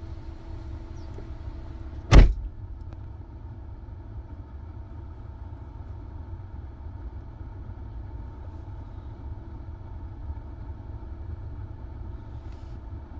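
Four-cylinder car engine idling, a steady low rumble with a faint hum. One sharp knock comes about two seconds in.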